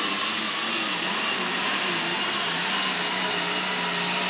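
Super stock pulling tractor's turbocharged diesel engine running hard at full power, with a steady high turbo whine over the engine note.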